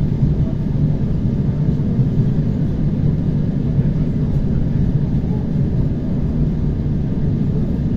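ER9T electric multiple unit running at speed between stations: a steady rumble of wheels and running gear with a low hum.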